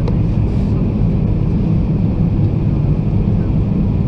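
Inside the cabin of an Airbus A320: a steady, loud rumble of jet engines and airflow, heavy in the low end.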